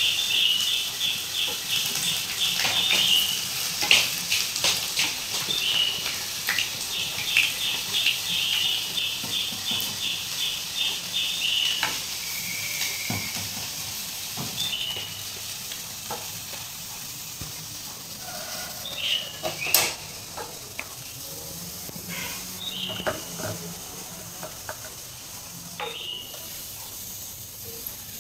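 Sausages frying in hot oil: a steady sizzle with scattered crackling pops. A rapid, high-pitched chirping trill runs twice through the first half.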